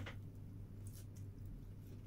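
Chewing a mouthful of bread and lettuce: a few short, soft mouth clicks, one right at the start and two about a second in, over a steady low hum.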